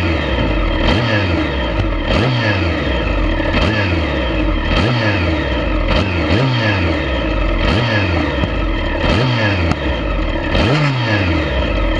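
2005 Kawasaki ZX-10R's inline-four engine revved in about eight quick throttle blips, roughly one every second and a half, each dropping back toward idle. A sharp crack at each blip: the exhaust backfiring.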